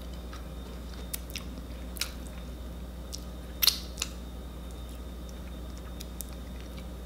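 Mouth sounds of someone chewing a chocolate chip cookie and licking chocolate off her fingers: scattered wet smacks and clicks, the loudest a little before four seconds in.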